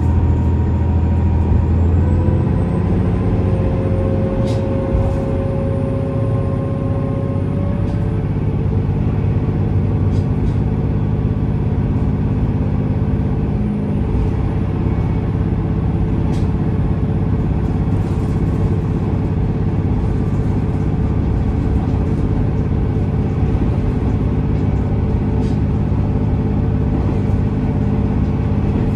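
Diesel railcar of a JR West KiHa 47 series train heard from inside the cabin, running along the line with a steady engine drone and wheel-on-rail noise. Over the first several seconds its tones rise as it gathers speed, then they hold steady.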